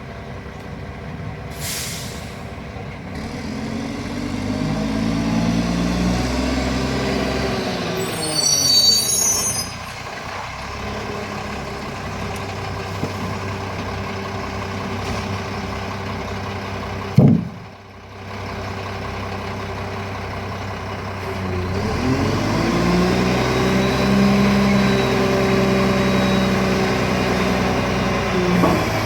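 Diesel garbage truck engine speeding up and holding high twice while the packer runs, then settling back. There is a squeal about 8 seconds in and a sharp burst of air about 17 seconds in, typical of an air brake.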